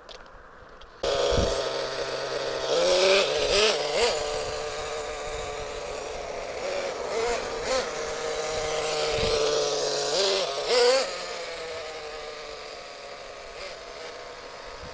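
Small glow-fuel nitro engine of a CEN MG10 1/10-scale RC monster truck running, starting abruptly about a second in, with brief throttle blips that push the pitch up several times.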